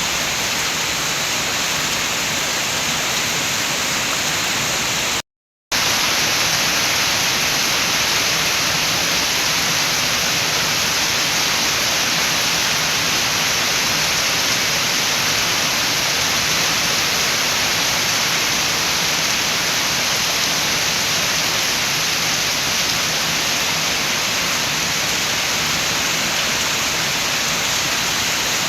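Steady rain with wind, an even hiss. It cuts out completely for a split second about five seconds in, then carries on slightly louder.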